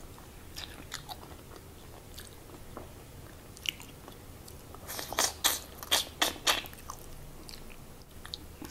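Close-miked mouth sounds of a person eating: wet chewing and small mouth clicks, then a quick run of about six loud crunchy snaps about five seconds in.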